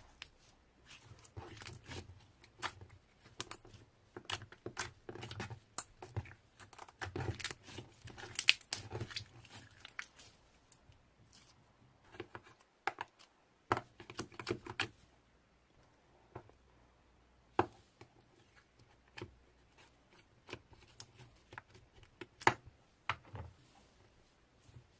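Slime being squished and stretched by hand: irregular sticky clicks, pops and crackles, busy for about the first ten seconds and then sparser.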